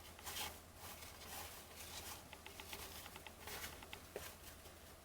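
Faint handling of baseball trading cards: soft swishes as cards slide over one another while being flipped through, with scattered light ticks.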